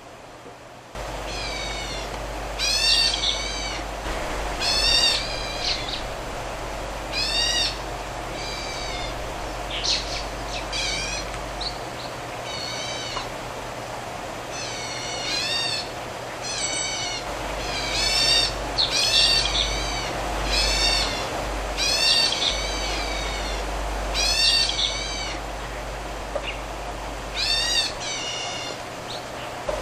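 A bird calling over and over, each call a short cluster of a few quick high notes, coming about every one to two seconds, over a steady background hum.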